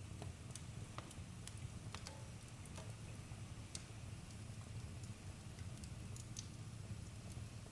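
Campfire crackling, with scattered sharp pops and snaps over a steady low rumble of the burning fire.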